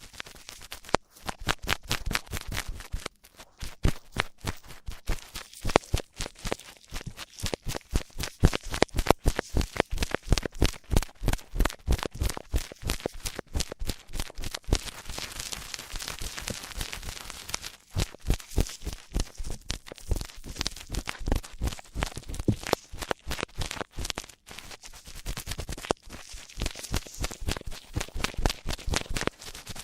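ASMR ear-cleaning sounds close on the microphone: a dense run of quick scratches and crackles, several a second, with a smoother rubbing hiss about halfway through and again near the end.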